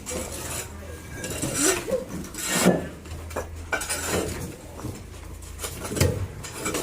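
Irregular scraping and rubbing strokes on a hard surface, with a few sharp knocks.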